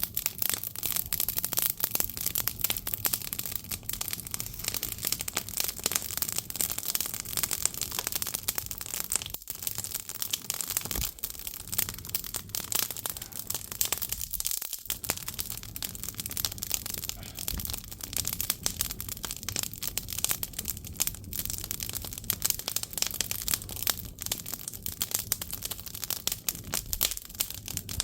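Split firewood burning in an agungi, a traditional Korean firebox, crackling and popping steadily with dense sharp snaps over a soft hiss.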